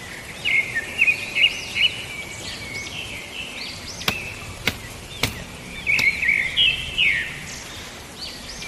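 Birds chirping, with many short, quick arched calls overlapping. Four sharp clicks or knocks, about two-thirds of a second apart, come in the middle.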